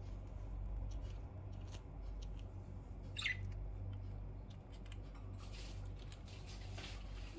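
A budgerigar gives one short falling chirp about three seconds in, among scattered light clicks and a soft rustle later on, over a steady low hum.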